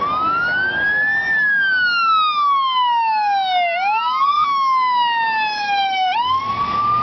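Emergency vehicle siren wailing loud and close in a slow cycle. It rises for about a second, falls over a couple of seconds, climbs briefly and falls again, then rises once more near the end.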